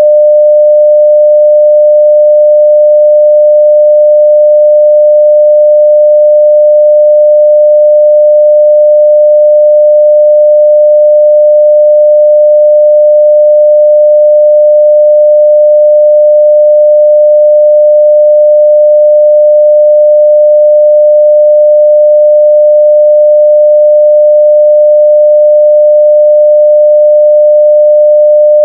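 A 600 Hz sine-wave test tone at full scale (0 dB), one steady pure pitch held without change.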